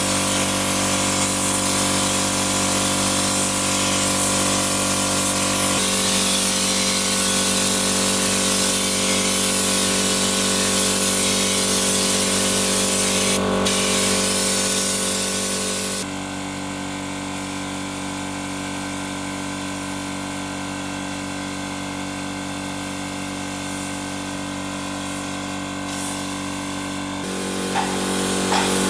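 A power tool running steadily, with a loud hiss over a motor hum. The sound shifts abruptly about six seconds in, again at sixteen, and once more near the end.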